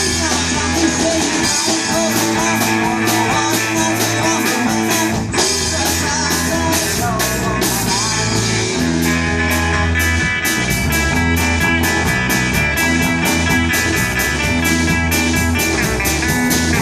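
Rock band playing an instrumental passage of a song: guitar over bass guitar and drums, with a steady beat.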